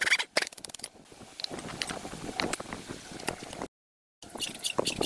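Scattered sharp mechanical clicks and light scrapes, as of metal parts or a hand tool being worked. A few short rasping bursts come at the start, and the sound cuts out completely for about half a second near the four-second mark.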